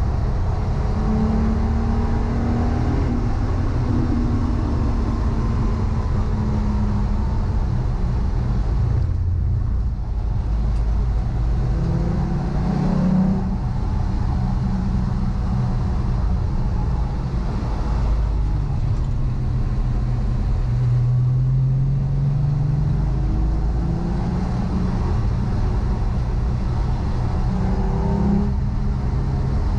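Volkswagen Corrado's VR6 engine running hard, its note rising and falling again and again as the car accelerates and changes gear, with brief drops in the sound about a third of the way in and again after two thirds.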